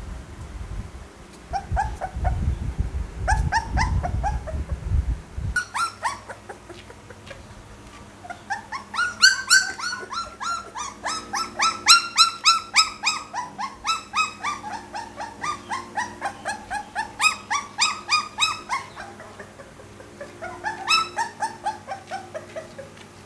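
Pit bull puppies whimpering and squealing in long runs of short high yelps, about four a second. A low rumbling noise sits under the first five seconds.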